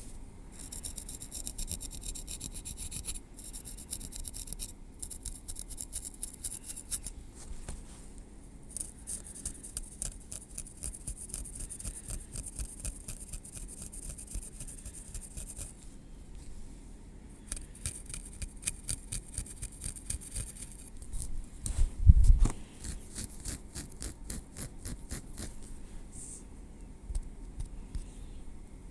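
Close-miked tweezers scratching and rubbing through hair against the scalp, in runs of quick fine strokes a few seconds long with short pauses between. There is a dull bump about three-quarters of the way in.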